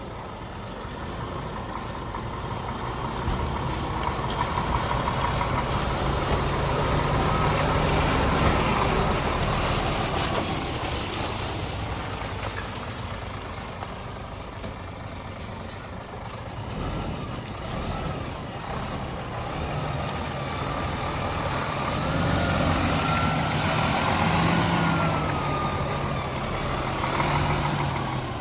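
Scania P310 truck's five-cylinder diesel engine running, with the revs rising and falling back twice.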